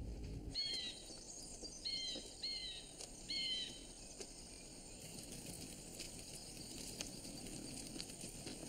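Woodland ambience: a bird gives four short calls, each sliding downward, in the first few seconds, over a steady outdoor hiss with a few faint ticks later.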